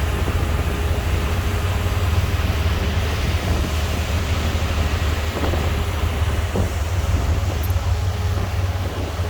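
Heavy diesel engine of earthmoving equipment running steadily with a deep, low rumble, with a couple of faint knocks about halfway through.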